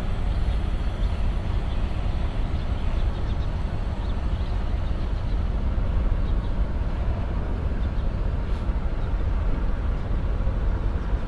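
Steady low rumbling background noise, even throughout with no distinct events, of the kind that traffic or wind on the microphone makes.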